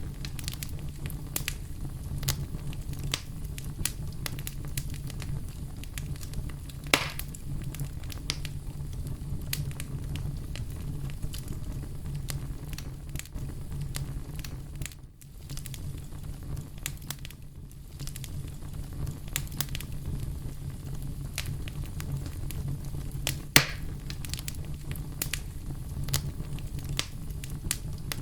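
Campfire burning: a steady low rumble of flames with frequent small crackles and snaps, and two louder pops about 7 and 23 seconds in.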